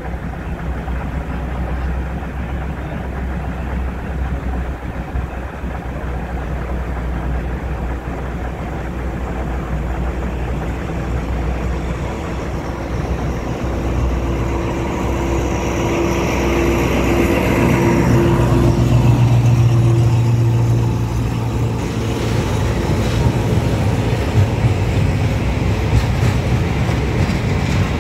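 Diesel locomotive hauling a railway breakdown train with crane cars, approaching and passing close by on the next track: its engine grows louder from about halfway and is loudest a few seconds later, then the rattle of the cars rolling past follows. A steady low hum lies underneath throughout.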